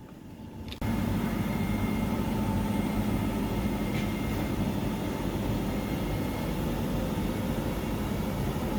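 A steady mechanical rumble with a low hum, starting abruptly about a second in and holding even throughout.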